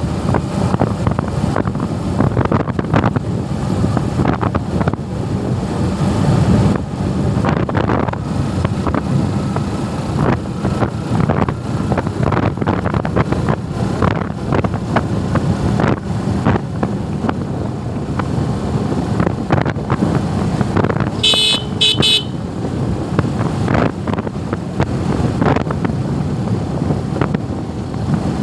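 Suzuki Gixxer motorcycle on the move, with engine and wind noise on the microphone. A horn toots twice in quick succession about three-quarters of the way through.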